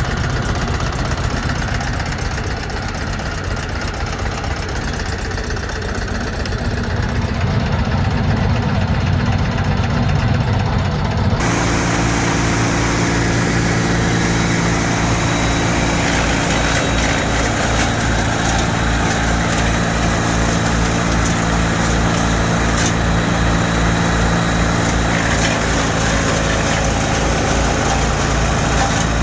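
Small wood chipper's engine running. About eleven seconds in the sound changes abruptly to a steadier, even engine note with a regular low pulse.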